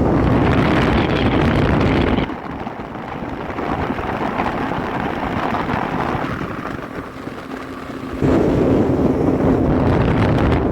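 Speedboat engine running at speed, with heavy wind buffeting the microphone and a steady hum underneath. The loud wind noise drops off suddenly about two seconds in and comes back about eight seconds in.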